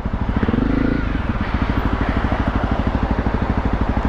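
Honda CRF dirt bike engine idling with a fast, even pulsing beat, with a short rev rising and falling about half a second in.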